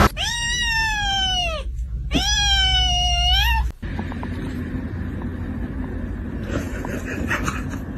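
A cat meowing twice: two long, drawn-out meows of about a second and a half each, the pitch sagging through the middle and rising at the end. After them it cuts off abruptly to a low background hum with faint ticks.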